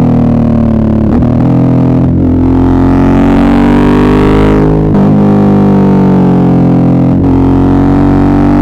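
Suzuki V-Strom 650's V-twin engine running loud and close under changing throttle, its pitch rising and falling, with short dips about a second in, two seconds in, near the middle and about seven seconds in as the throttle is closed or a gear is changed.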